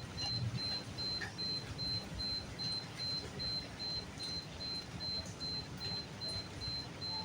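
Night rain: a steady wash of rainfall with scattered drips and a low, wavering rumble underneath. A thin, high pulsing tone repeats evenly, about three times a second.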